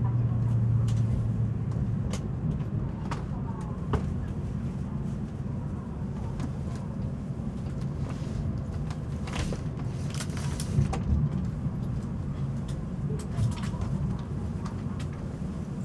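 Cabin running noise of a Tokaido Shinkansen N700-series train slowing into a station: a steady low rumble with scattered clicks and knocks from the wheels on the track. A low hum fades out about two seconds in.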